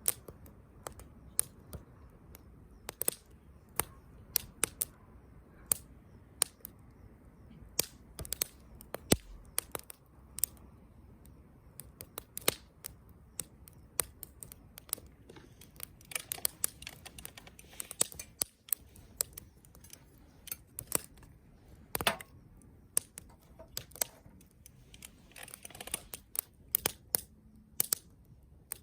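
Wood campfire crackling: irregular sharp pops and snaps over a low steady hiss, with flurries of quicker crackles about midway and near the end.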